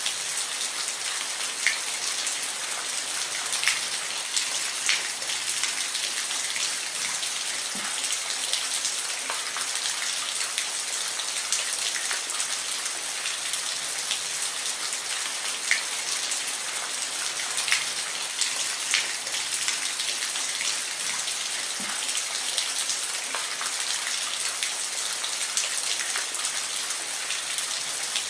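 Steady rain falling, a constant hiss with scattered sharper drops pattering close by.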